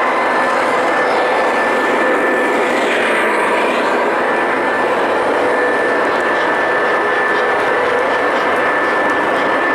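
O scale model train running on the layout: a steady drone of wheels on the rails and motor whine, with a few held tones on top.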